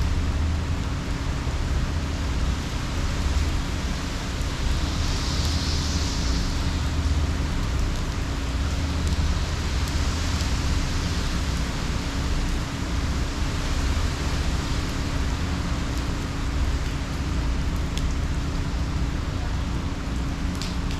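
Hurricane Ian's heavy rain falling steadily, over a constant low rumble and a steady hum. The rain swells briefly about five seconds in and again about ten seconds in.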